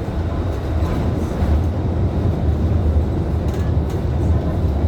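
Scania K310IB city bus underway: a steady low engine drone and road rumble heard from inside the cabin.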